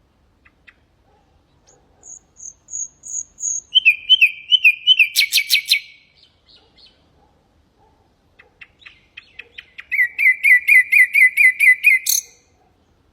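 Nightingale singing two song phrases with a pause of about two seconds between them. The first phrase runs from a series of high whistles into fast repeated notes and a quick rattle of clicks. The second builds from spaced clicks into a fast run of repeated notes and ends on a sharp high note.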